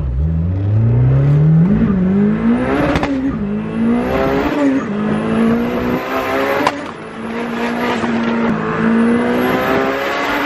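Big-turbo Honda S2000 four-cylinder engine, heard from inside the cabin, accelerating hard. The revs climb and fall at two quick upshifts in the first few seconds, then the engine holds a steady pitch while cruising. Sharp clicks come about three seconds in and again near the middle.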